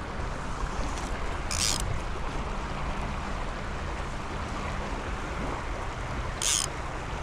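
River water rushing steadily, with two brief high hissing swishes, one near the start and one near the end.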